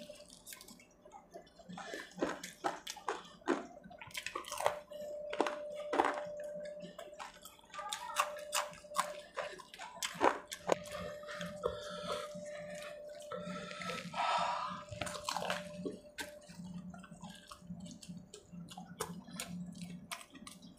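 Close-miked wet chewing of fried pakora, with many sharp lip-smacks and mouth clicks.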